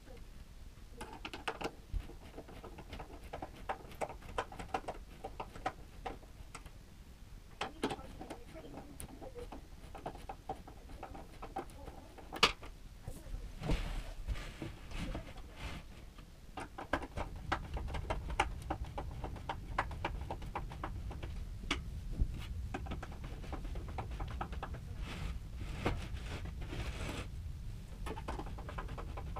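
Irregular light knocks and clicks of bookcase panels and hardware being handled during assembly. A low rumble grows stronger from about halfway.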